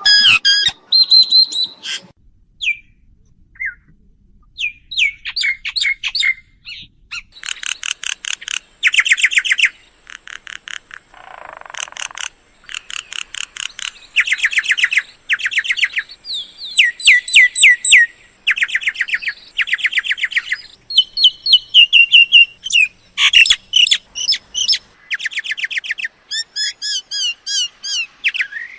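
Myna calls: bursts of rapid, sharp chirps and whistled notes, repeated over and over with short gaps, played as a lure to draw mynas in.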